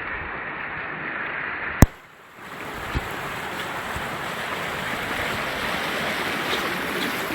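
Steady rushing noise of flowing river water mixed with wind buffeting the phone's microphone. About two seconds in, a sharp click and a brief dropout, typical of a glitch in the live stream's audio, before the rushing noise resumes.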